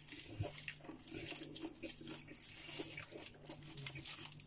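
Close-up chewing of a bite of kebab roll filled with fresh, crisp lettuce: irregular crunching and wet mouth noises. A faint steady hum runs underneath.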